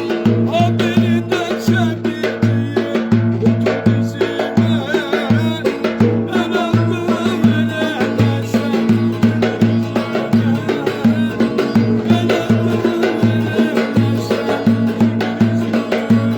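Turkish folk dance tune (oyun havası) with a steady drum beat under a high lead melody that wavers in pitch.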